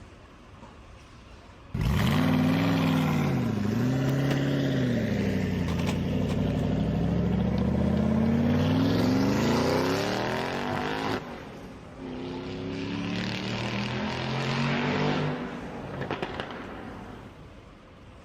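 Car engine revving sound, its pitch dipping and climbing. It cuts in suddenly about two seconds in, breaks off about halfway, then comes back more briefly and fades out.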